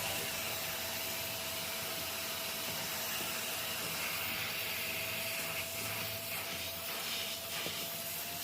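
Steady hissing noise from a running cleaning machine, with a thin, even whine held above it and a few light clicks in the second half.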